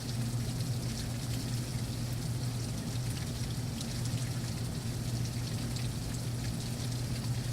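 Heavy thunderstorm rain falling steadily, a dense patter of drops with water pouring and splashing, over a steady low hum.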